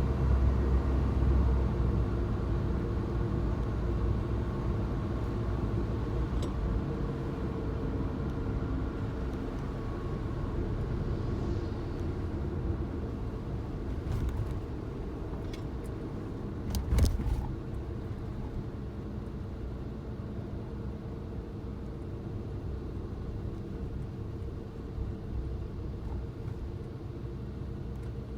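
Suzuki Jimny driving along, a steady low engine and road rumble. A short sharp knock or clatter comes about two-thirds of the way through.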